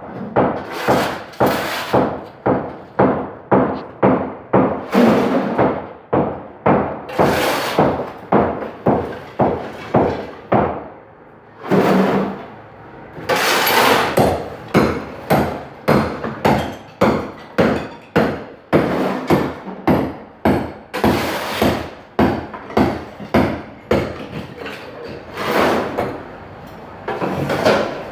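A steady, rapid series of sharp knocks or strikes, about two and a half a second, each with a short ring after it, pausing briefly about halfway through.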